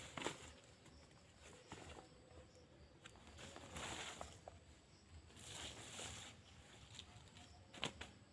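Faint, scattered rustles and crunches of dry leaf litter being disturbed, with a couple of sharp clicks near the end.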